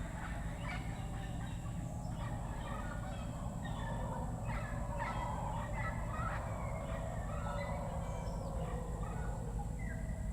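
Rainforest chorus of many birds giving rapid, chattering, cackling calls that overlap continuously, over a steady low hum and a thin, steady high-pitched whine.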